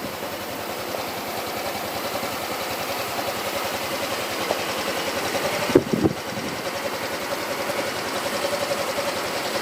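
Yamaha Axis Z scooter's 125cc fuel-injected BLUE CORE single-cylinder four-stroke engine idling steadily, with one brief louder jolt about six seconds in.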